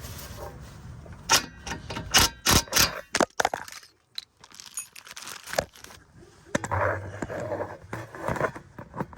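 A run of sharp clicks and knocks from things being handled, a brief dip to near quiet about four seconds in, then metallic clinking and rattling near the end.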